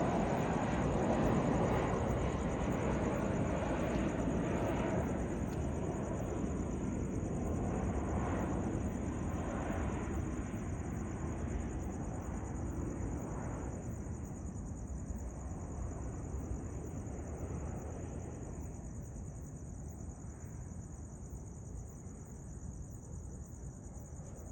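Jet engine rumble of a Boeing 737-700 with CFM56-7B turbofans fading steadily as the airliner flies away, growing duller as it goes. Crickets chirp steadily throughout.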